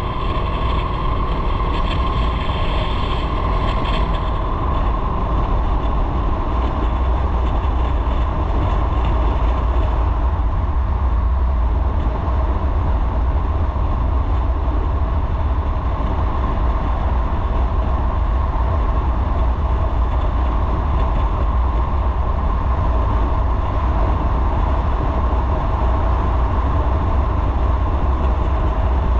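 Motorcycle running at a steady cruising speed, its engine drone mixed with heavy wind rumble on the microphone.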